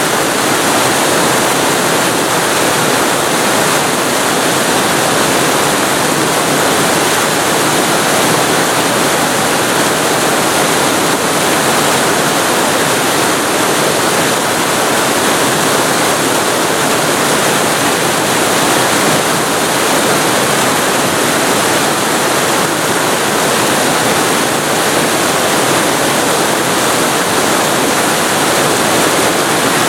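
Waterfall recorded very close to the falling water: a loud, steady rushing with no breaks or changes.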